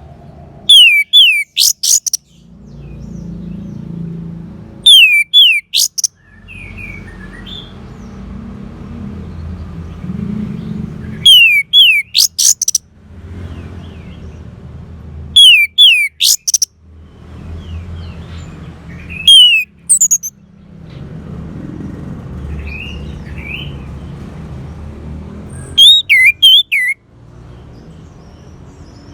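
Orange-headed thrush song: six loud, short phrases of quick falling whistles with very high notes over them, a few seconds apart. A low background rumble fills the gaps between phrases.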